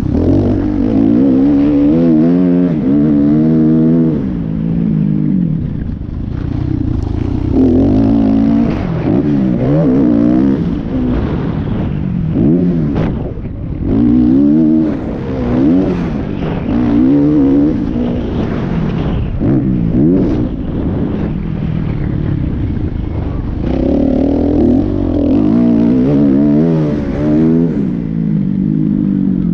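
Motocross dirt bike engines revving up and backing off again and again, the pitch climbing and dropping every second or two, with more than one bike heard at once at times.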